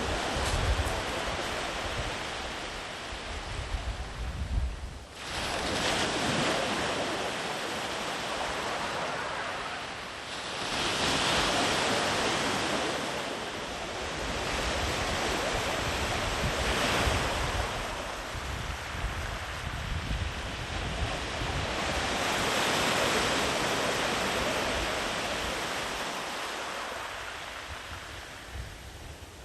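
Sea waves breaking and washing up the beach, the surf swelling into a new surge about every five or six seconds. Low wind rumble on the microphone at the start and again near the end.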